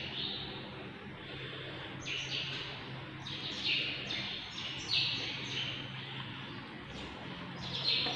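Small birds chirping: a scattered series of short, falling chirps, over a faint steady low hum.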